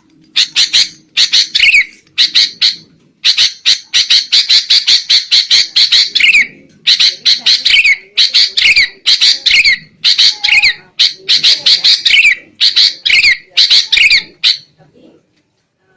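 Sooty-headed bulbuls chattering noisily in rapid harsh runs of repeated notes, many ending in a falling slur, in bouts with short pauses and stopping shortly before the end. This is the agitated 'ribut' chatter used as a lure call to draw wild bulbuls in.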